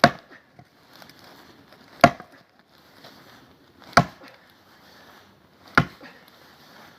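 An axe struck four times into a tough, thick round of firewood, sharp wooden chops about two seconds apart, as someone tries to split it.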